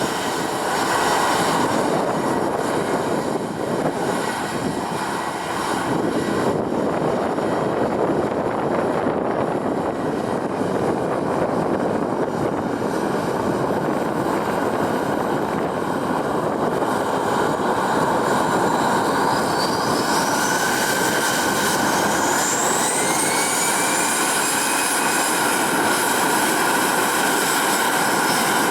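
Airbus A320's CFM56 turbofan engines running steadily. About two-thirds of the way in, their whine rises in pitch and then holds at the higher note as the engines spool up.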